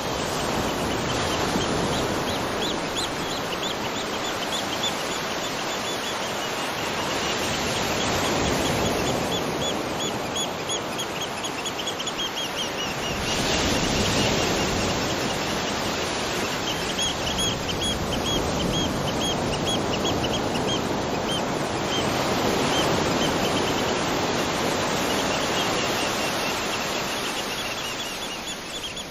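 Tropical beach ambience: surf washing in, swelling and easing every few seconds, with runs of rapid high-pitched chirping lasting a few seconds at a time.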